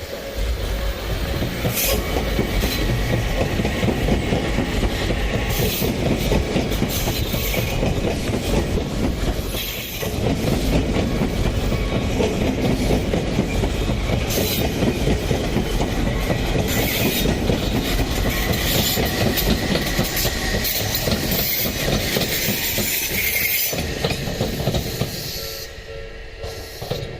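Electric train passing close by at speed over a level crossing: a heavy running rumble with wheels clattering over rail joints and some wheel squeal, dipping briefly about ten seconds in and fading near the end, when the crossing bell can be heard ringing again.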